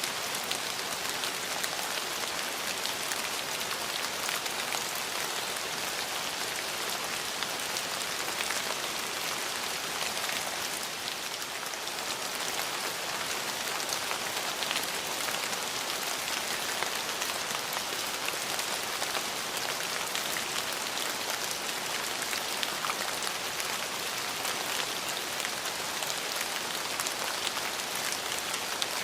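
Steady rain falling, a continuous hiss of drops with many small close patters.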